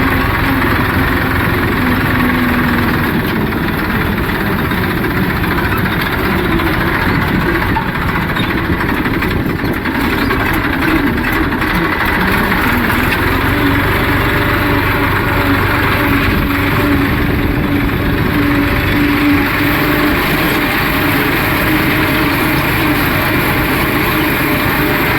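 Massey Ferguson 241 tractor's three-cylinder diesel engine running steadily under load, pulling a field leveller through soil.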